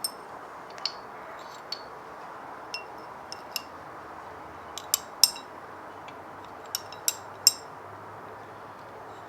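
Steel engine pushrods clinking against each other as they are pulled from a Gen 4 Hemi and set down: about a dozen light metallic clinks, each with a short ring.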